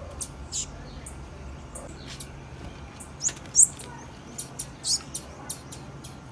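Female blue-black grassquit (tiziu) calling: a string of short, high-pitched chirps at uneven intervals, the loudest pair about three and a half seconds in.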